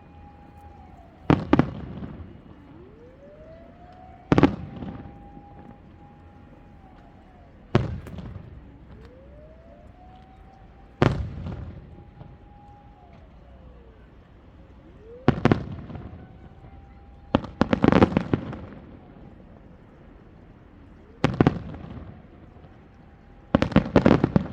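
Aerial fireworks shells bursting, about eight loud booms spaced every three to four seconds, each with an echoing tail, one of them a rapid crackling cluster about 18 seconds in. Between the booms, whistling shells rise in pitch as they climb and then hold a steady whistle.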